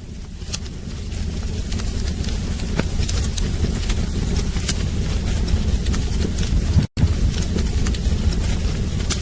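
Wood fire burning in a fireplace: a steady low roar with many sharp crackles and pops. A brief cut to silence about seven seconds in.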